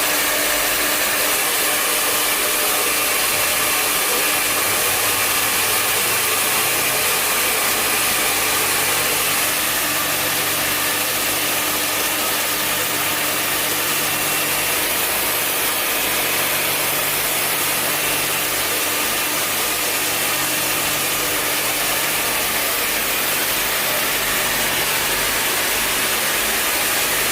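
Pet hair dryer blowing steadily, a constant rush of air with a low motor hum.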